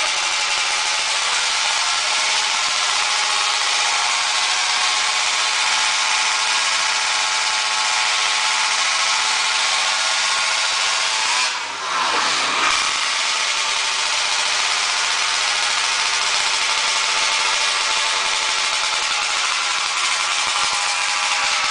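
Speedway motorcycle's single-cylinder engine running steadily at a constant pitch. About halfway through, the revs drop sharply for about a second and climb straight back up.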